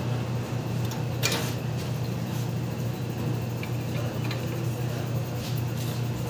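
A few light clicks and a short scrape of tools and fittings being handled while refrigerant pipes are connected to an air-conditioner compressor. Under them runs a steady low hum.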